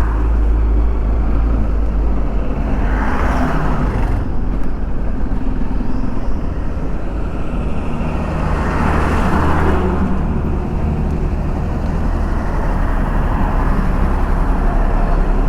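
Motorcycle engine running steadily on the move, under a rush of wind and road noise that swells twice, about 3 and 9 seconds in.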